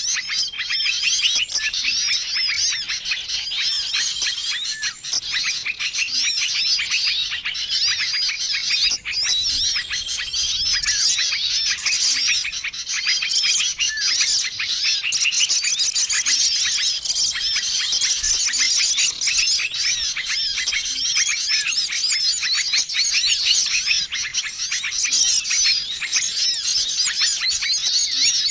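Bird-lure recording of many small songbirds calling at once: a dense, continuous chatter of chirps and trills, with a short level whistle recurring every three to four seconds.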